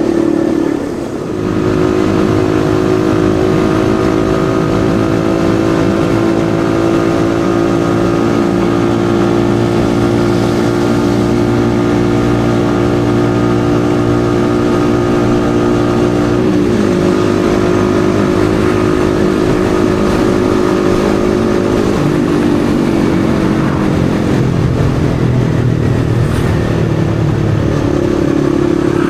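Yamaha XSR155's single-cylinder four-stroke engine running at speed while riding, holding a steady note with a brief drop about a second in. The pitch shifts about halfway through, sags, then climbs back near the end.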